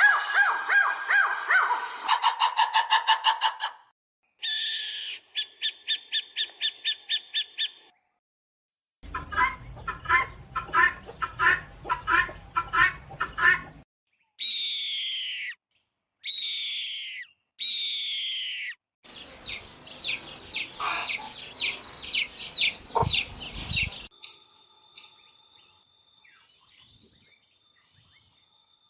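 A run of separate short clips of animal calls, mostly birds and fowl, each a few seconds long with brief silences between. They include fast repeated calls, three falling whistled calls and a quick trill.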